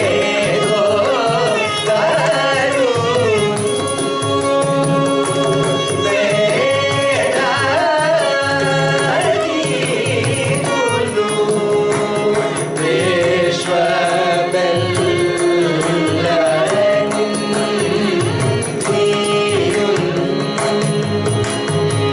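Carnatic music: a voice singing a gliding, ornamented melody, accompanied by mridangam strokes.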